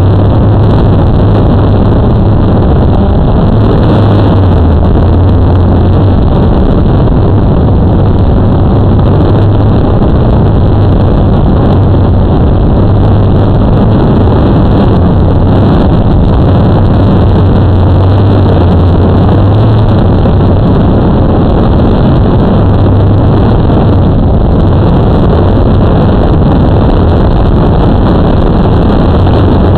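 Blade 350 QX2 quadcopter in flight: its motors and propellers give a loud, steady buzz with a low hum that wavers in pitch, mixed with heavy wind rush on the microphone.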